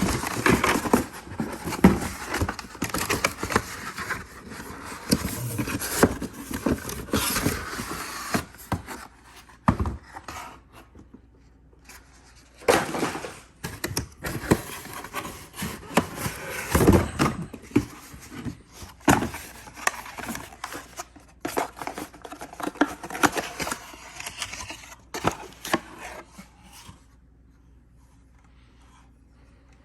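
Irregular handling noises from unboxing a Dyson V15 vacuum: packaging and plastic parts rubbing, scraping and clicking, with short pauses, then quieter near the end.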